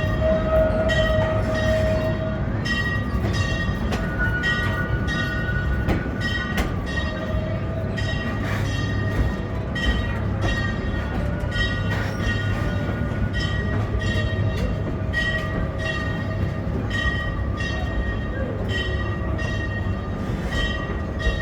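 Amusement-park train running along its track, heard from aboard: a steady low rumble with a regular clatter about twice a second and steady high ringing tones from the running gear.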